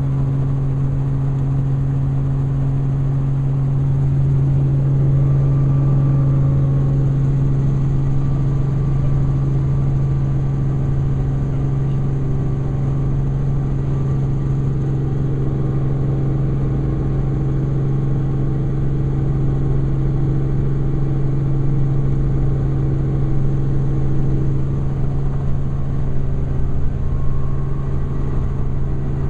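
Helicopter in flight, heard from aboard: a steady, loud drone of engine and rotor with a deep, even hum that holds constant.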